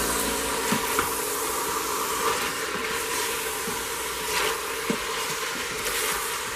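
Chicken pieces sizzling in hot oil in an Instant Pot's stainless steel inner pot while being stirred with a silicone spoon, with a few short scrapes of the spoon against the pot.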